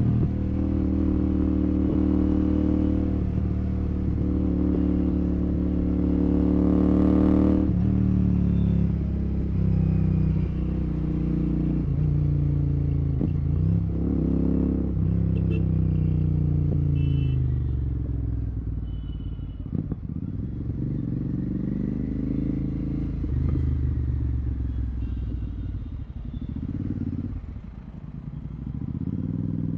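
Royal Enfield Continental GT 650's parallel-twin engine through a Red Rooster aftermarket exhaust with the dB killer removed. It pulls at high revs, then the throttle closes about seven seconds in, and the exhaust note falls and rises again through gear changes and throttle openings while riding in traffic.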